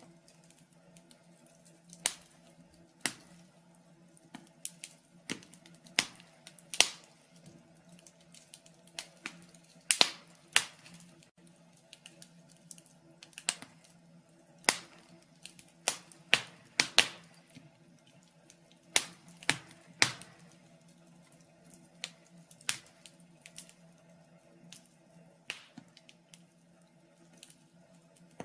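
Wood fire crackling in a fireplace: irregular sharp pops and snaps, some loud, over a faint steady hum.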